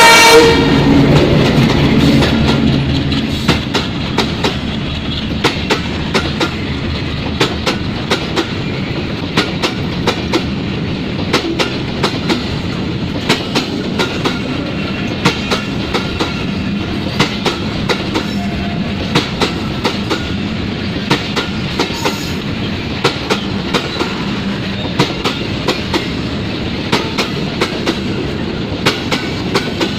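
A train of railway oil tank wagons rolling past at speed: a steady rush of wheels on rail with a regular clickety-clack, the clicks often coming in pairs. A locomotive horn cuts off right at the start, and the louder rumble of the train's head fades over the first couple of seconds.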